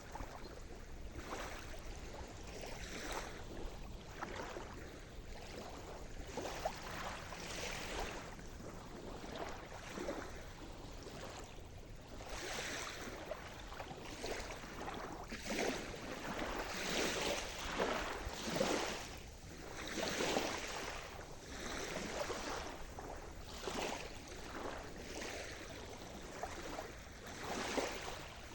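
Sea surf: small waves breaking and washing in an irregular series, one every second or two, louder in the middle stretch.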